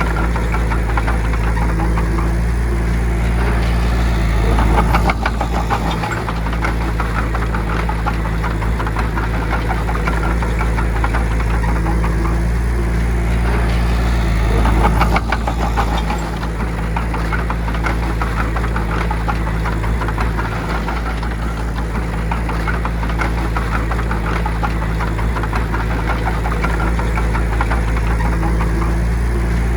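Bulldozer's diesel engine running steadily under work, swelling louder twice, about five and fifteen seconds in.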